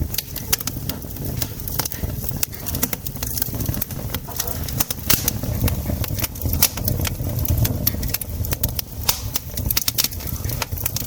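Wood campfire crackling and popping, with many irregular sharp snaps over a steady low rumble.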